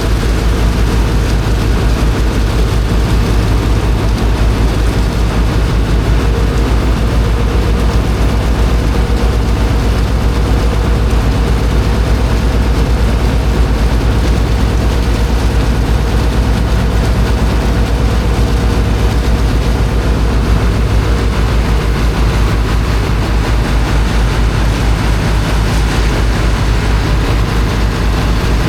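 Engine of a high-pressure water pump running steadily: a low, evenly pulsing drone with a constant hum above it.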